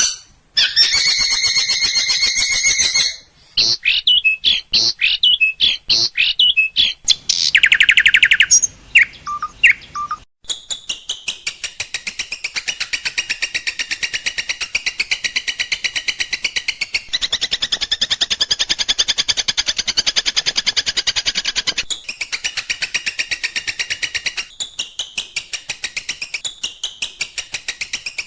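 Songbird song spliced from several recordings into a long-tailed shrike (cendet) training track. Dense high chattering gives way to a string of short, sharp separate calls and a brief fast trill. About a third of the way in it becomes a long run of rapid, evenly repeated sharp notes, with abrupt cuts where one recording changes to the next.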